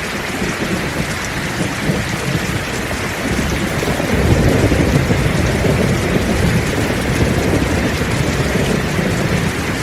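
Heavy rain pouring steadily, with a deep rumble of thunder swelling about four seconds in and rolling on to the end.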